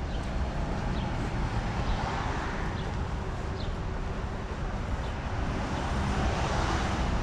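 Outdoor traffic noise: a steady rumble of passing vehicles, swelling louder twice, a couple of seconds in and again near the end.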